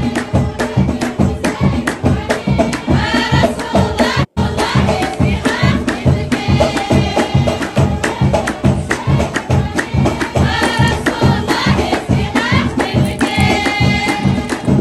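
Amazigh ahwach-style folk music: a group singing phrases over a steady, driving drum beat, with a brief dropout about four seconds in.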